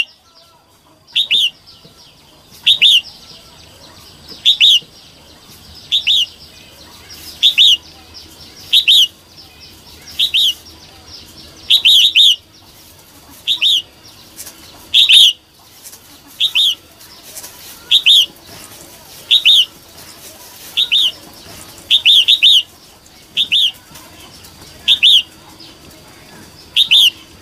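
Female red-whiskered bulbul calling: short, sharp high notes repeated steadily about every second and a half, some given in quick pairs. It is the call bird-keepers play to rouse and provoke male bulbuls.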